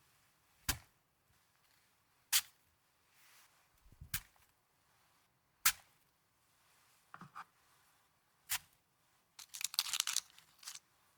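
Snow being handled close to the microphone: crisp single crunching snaps, about five of them a second or two apart, then a dense run of crackling near the end.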